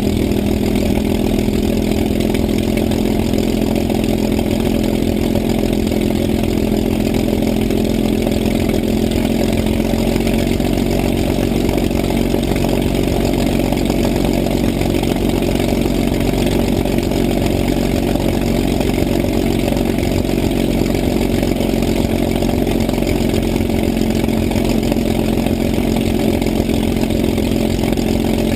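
An engine or motor running steadily at constant speed, a continuous hum whose pitch creeps up slightly over the first several seconds.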